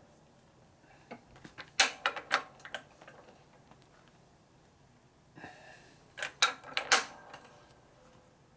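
Sharp metallic clicks and clacks from a wrench and socket on a Harley shovelhead flywheel nut as it is torqued, coming in two short clusters with a brief scrape before the second.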